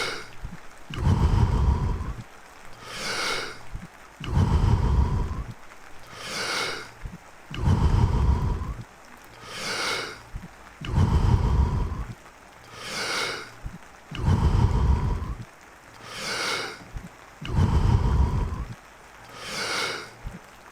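Deep, rhythmic power breathing of the Wim Hof Method: about six full breaths, each a quick hissing draw of air followed by a longer, lower rush of air let go through the mouth, one breath roughly every three and a half seconds.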